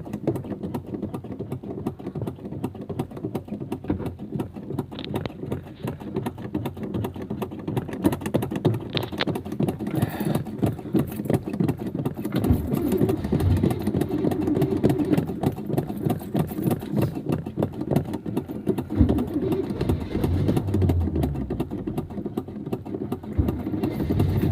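Starter motor cranking the cold 400 small-block V8 over for a long stretch, the engine trying to fire but not catching. It is a hard cold start at about −15 °C.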